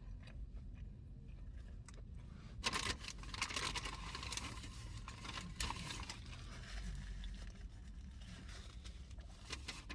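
Paper food wrapper crinkling and rustling as a sandwich is handled, starting about two and a half seconds in and tapering off, over a low steady rumble.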